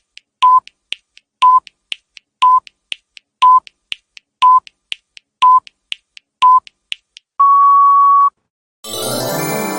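Electronic countdown-timer beeps: seven short beeps, one a second, with faint ticks between them, then a longer beep near the end marking time up. Music starts just before the end.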